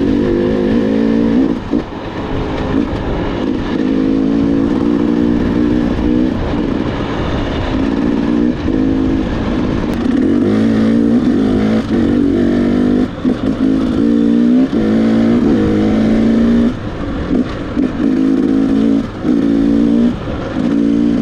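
Dirt bike engine being ridden, the throttle opened and closed again and again, each pull a rising engine note.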